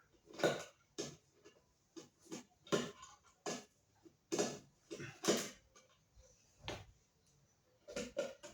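Irregular clicks, knocks and rattles of a fan's plastic parts being handled and fitted together during assembly, a dozen or so short sounds at uneven intervals.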